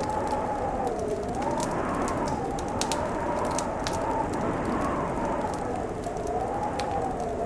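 Wood fire crackling with scattered sharp pops, over a steady howling wind that slowly wavers up and down in pitch.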